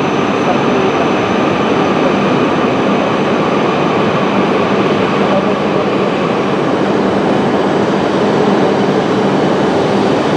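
Steady noise of a Shinkansen bullet train at a station platform, an even hiss over a faint low hum.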